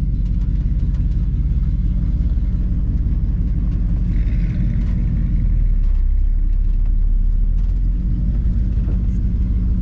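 Squarebody ramp truck under way: a steady, loud low engine and road rumble.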